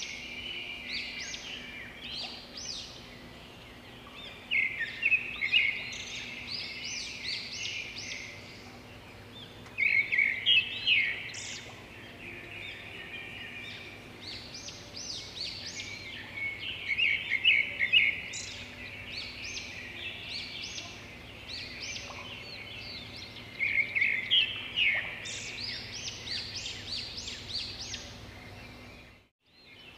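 Songbird chirping in repeated bursts of rapid, high chirps every several seconds.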